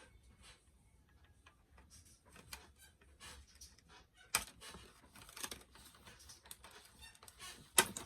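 Small plastic doll accessories and packaging being handled: a scatter of light clicks and taps, with two brief rattles and two sharper clacks, one about four seconds in and one near the end.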